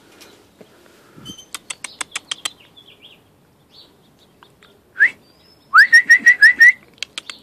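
Bird calling: a quick run of sharp clicking chips, then a single rising note and a loud burst of about six rising chirps in quick succession, with a few more chips near the end.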